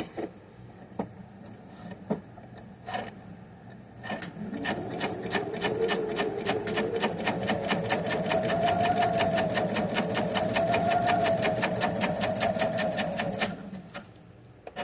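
Husqvarna Viking sewing machine: a few light clicks, then from about four seconds in the machine sews, with rapid, even needle strokes over a motor whine that rises as it speeds up, then holds steady. It stops a little before the end.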